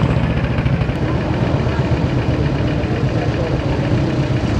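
Vintage motorcycle engines idling and running at low speed, with a steady low chugging. One bike pulls away and passes close by at a crawl.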